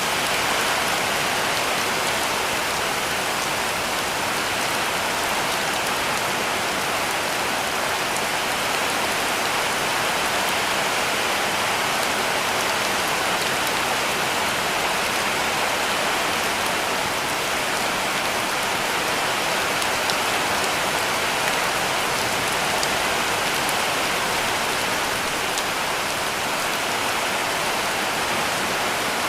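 Heavy rain falling steadily on a cabin roof: an even, unbroken hiss with fine drop patter, steady in level throughout.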